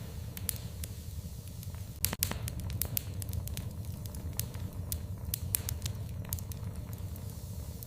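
Fireplace fire crackling, with irregular sharp pops over a steady low rumble; the loudest pops come about two seconds in.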